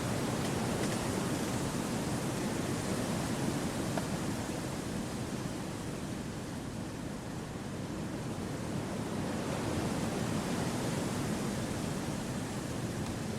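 Steady wind rushing through forest trees, easing slightly about halfway through and then building again.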